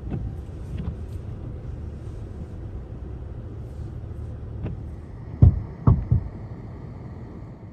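Car driving slowly on a snow-covered road, a steady low rumble, with three heavy thumps about five and a half to six seconds in.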